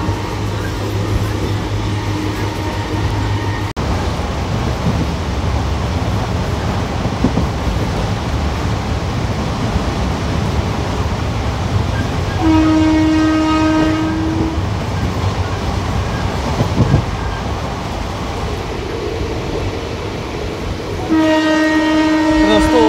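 Express passenger train running, heard from on board with steady running noise throughout. A train horn sounds twice, each time for about two seconds: once around the middle and again near the end. A steady hum cuts off abruptly a few seconds in.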